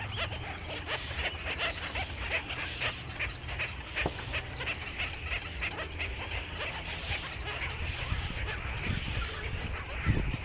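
Many birds calling at once: a dense, continuous chatter of short high chirps, over a steady low hum.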